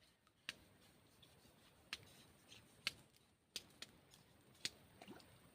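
Near silence broken by a handful of sharp, irregular clicks or taps, about six over a few seconds.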